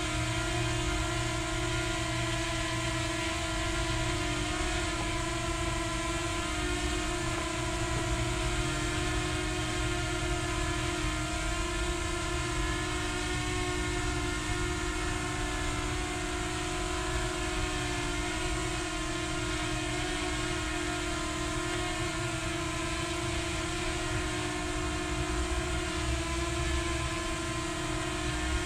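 Small quadcopter drone's motors and propellers whining steadily in flight, one held buzzing pitch with overtones that wavers slightly up and down.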